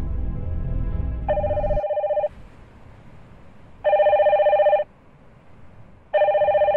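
A low, steady music drone stops about two seconds in. Over and after it, a mobile phone rings for an incoming call: three trilling rings of about a second each, roughly a second apart.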